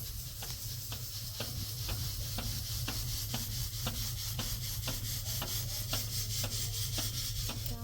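A machine running: a steady low hum and hiss with a sharp click repeating about twice a second.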